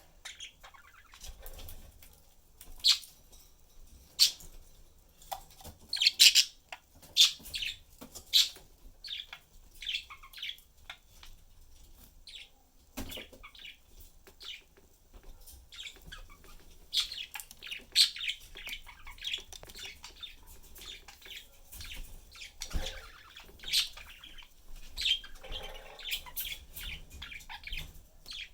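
Pet budgerigars chirping and chattering in many short, high calls, with a few knocks mixed in.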